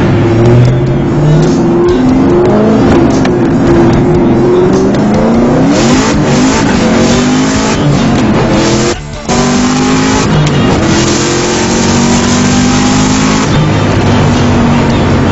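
Twin-turbocharged Mustang Cobra V8 boosting at 12 psi under hard acceleration, its revs climbing again and again through the gears. There is a brief drop in sound at a shift about nine seconds in.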